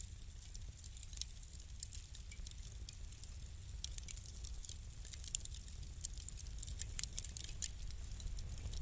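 Wood fire in a fireplace crackling: irregular sharp pops and snaps over a low steady rumble of burning, with the pops coming thicker and louder toward the end.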